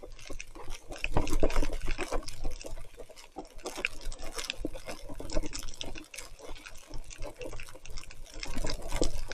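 Water splashing and dripping, with dense irregular ticks and crackles over a low rumble.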